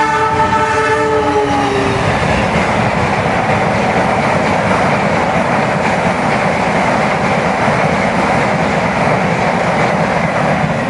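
Train horn sounding for about the first two seconds, its chord dropping slightly in pitch as it ends, then the loud steady rumble and rattle of the train passing close by on the rails.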